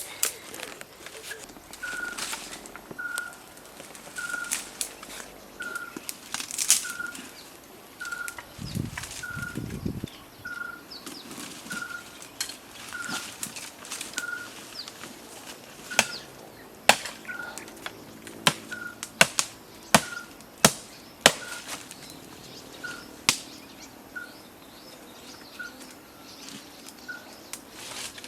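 A series of sharp knocks and clicks, irregular at first and then a run of louder ones a little past the middle, over a short high note repeated about once a second.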